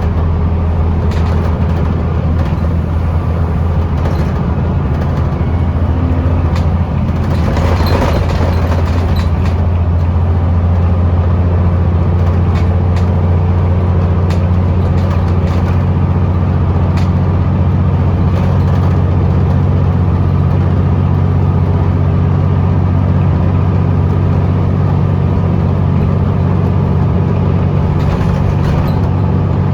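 Scania L94UB bus's diesel engine running steadily under way, driving through a ZF automatic gearbox, heard from inside the bus, with a low drone and occasional short rattles and clicks. The engine note shifts and road noise swells briefly about seven seconds in.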